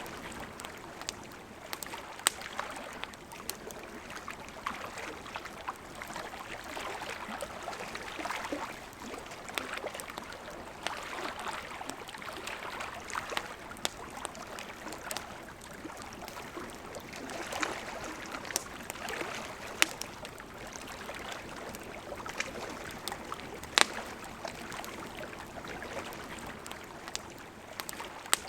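A river flowing steadily, with a campfire crackling over it in scattered sharp pops and snaps. The loudest pops come about 2 seconds in, about 20 seconds in and about 24 seconds in.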